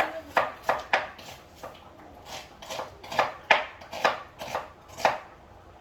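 Knife chopping onions on a cutting board: about a dozen sharp, uneven knocks, two to three a second, stopping about five seconds in.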